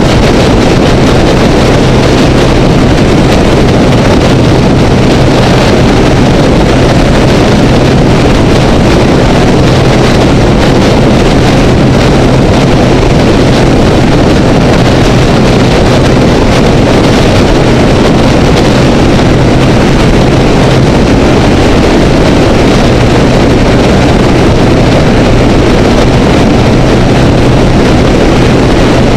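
Honda Rebel motorcycle running at a steady freeway cruise, with a constant low engine hum under loud, unbroken wind and road noise rushing over the camera housing.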